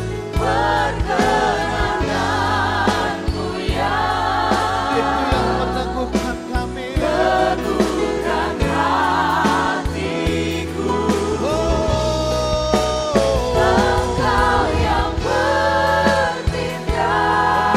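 Worship band playing a praise song, with several voices singing sustained, wavering notes over steady bass and drums.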